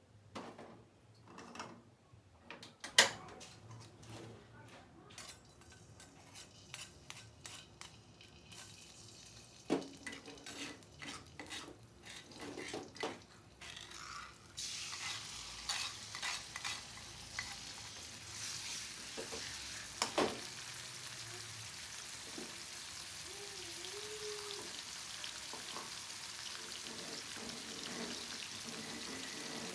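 Kitchen utensils and pans clicking and knocking, then about halfway through a steady sizzle starts as food begins frying in a pan, with a few more knocks over it.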